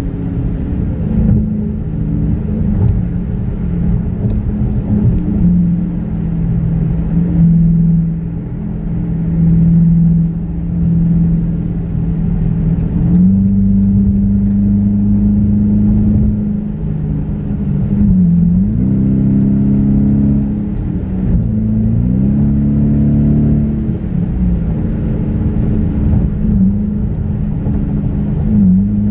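Dodge Challenger R/T's 5.7-litre HEMI V8 droning at freeway cruise, heard from inside the cabin over tyre and road noise. Its note briefly falls and climbs again a few times in the second half as the throttle eases off and comes back on.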